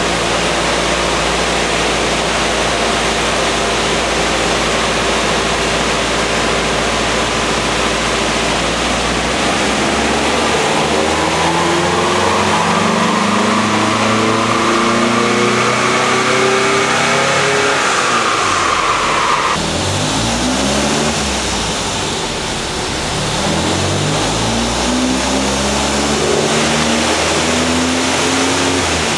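Volkswagen engine run on a chassis dyno: it holds a steady speed, then climbs in pitch for about nine seconds in a full-throttle pull, with a higher whine rising alongside. After a sudden cut, the revs drop and then climb again in another pull.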